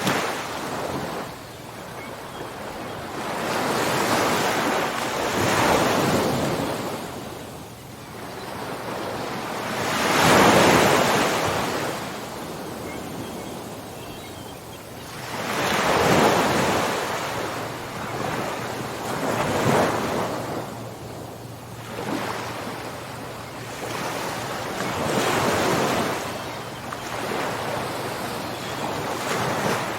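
Ocean waves breaking and washing ashore in slow surges every few seconds, with the biggest swells about a third of the way in and again just past halfway.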